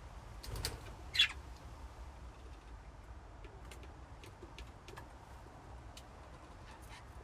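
Budgies in a colony cage: one sharp, loud chirp about a second in, then scattered faint short chirps and clicks over a steady low hum.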